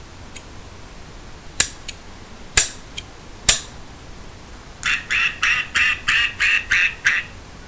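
Three sharp clicks about a second apart, then a fast run of about ten duck quacks, roughly four to five a second.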